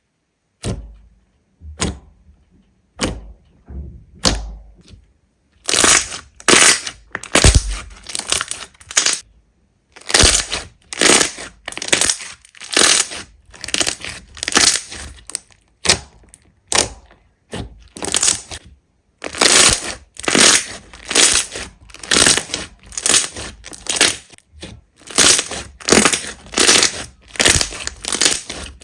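Slime being squeezed and pressed, giving crisp crackles and pops. A few scattered clicks at first, then from about six seconds in a steady run of crunchy bursts, roughly two a second, with brief pauses.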